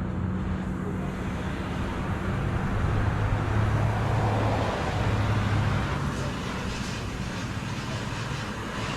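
A car engine running steadily, a low hum that grows louder for a couple of seconds in the middle, over general shop noise.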